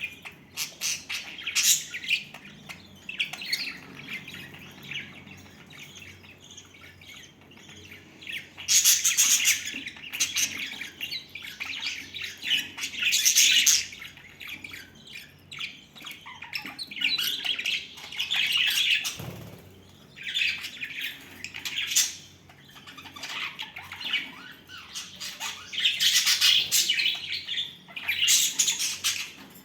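Pet budgerigars chattering and squawking, with louder bursts of calls every few seconds.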